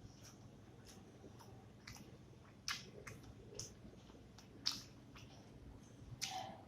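A person chewing a mouthful of rice and fish curry close to the microphone, with a handful of sharp wet mouth clicks and smacks.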